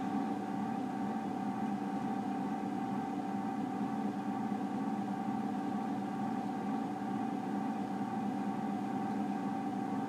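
1979 Emerson Casablanca friction-drive ceiling fan running, a steady motor hum with a thin steady whine above it. On this fan, higher knob settings add noise rather than blade speed.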